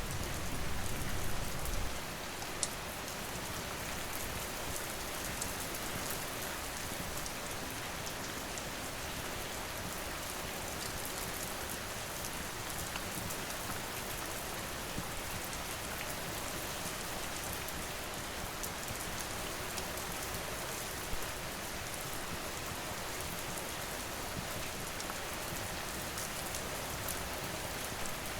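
Steady rain falling, an even hiss, with a few sharp pops from a crackling wood fire scattered through it. A low rumble under the rain dies away about two seconds in.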